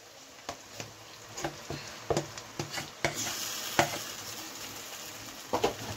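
Mashed brinjal bharta dropping into hot oil in a kadhai and frying, with a hiss that grows about halfway through. A metal spatula and a steel bowl knock and scrape against the pan several times as the mash is pushed out.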